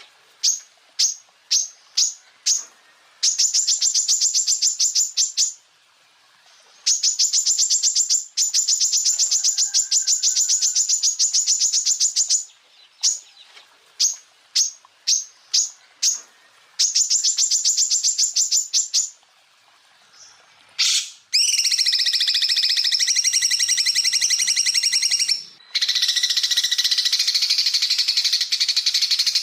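Cucak ijo (greater green leafbird) song: bursts of rapid, high-pitched rattling trills repeated with short gaps, some held for a second or two. About 21 seconds in it changes to a continuous, fuller chattering song with several pitches at once.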